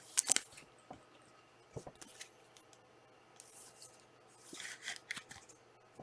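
Trading cards and their plastic and foil packaging being handled: short rustling, sliding scrapes, a sharper pair at the start and another cluster about four to five seconds in, with a few light clicks between.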